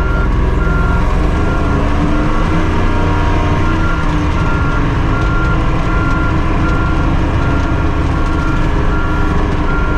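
Tucker Sno-Cat engine running steadily, heard from inside the cab. A short high beep repeats about every half second throughout.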